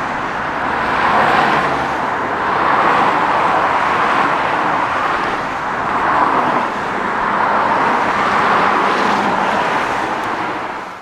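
Motorway traffic rushing past at speed, a steady roar of tyres and engines that swells and eases every second or two as vehicles go by.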